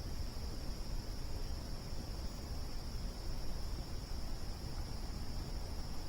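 Crickets trilling steadily in one continuous high-pitched chorus, over a low steady rumble.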